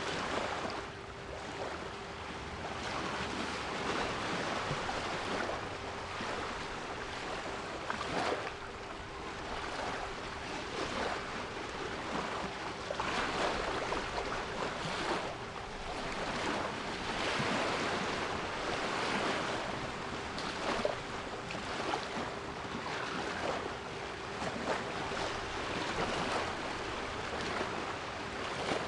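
Sea waves washing in, a wash of surf noise that swells and falls every few seconds, with a steady 396 Hz pure tone held unchanged beneath it.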